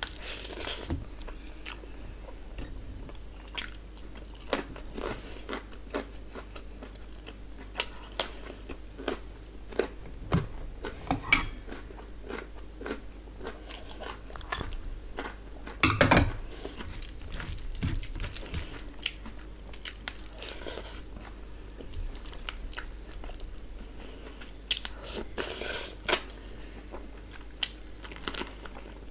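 Close-up eating sounds: chewing and biting of mutton curry and rice eaten by hand, with many short wet clicks from the mouth and fingers, the loudest about halfway through.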